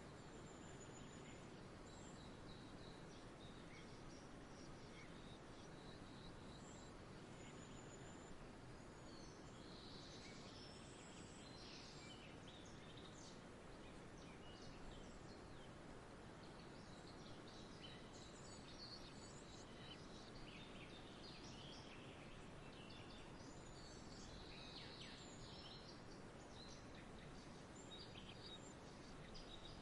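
Faint outdoor nature ambience: a steady low hiss of background noise with small birds chirping on and off in the distance.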